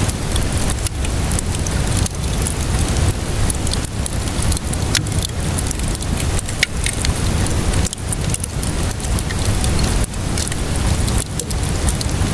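Steady rainfall hiss layered with a wood fire crackling, giving scattered sharp pops and snaps over the rain.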